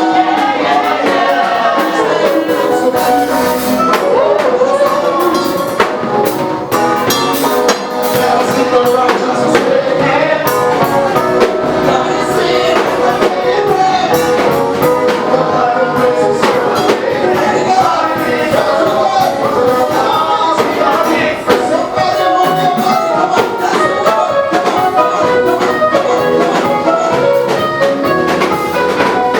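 Upbeat gospel praise music: a band with drums and tambourine, with singing.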